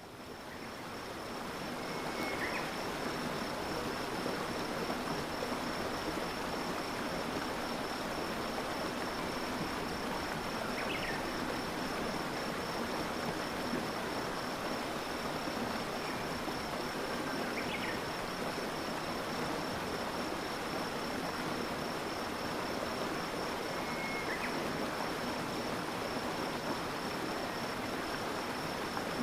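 A stream of water flowing steadily, fading in over the first couple of seconds. A continuous high insect trill runs throughout, and four short chirps are spaced several seconds apart.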